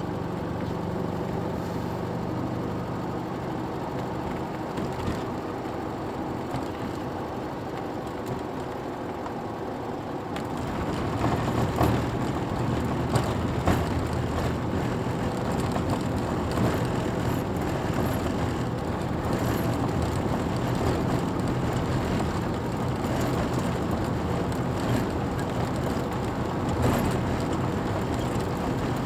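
Car engine heard from inside the car, running steadily at first. About ten seconds in it gets louder and rougher as the car pulls away and speeds up, with road noise under it.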